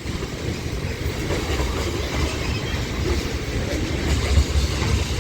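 Train rolling past, a steady low rumble that grows somewhat stronger near the end.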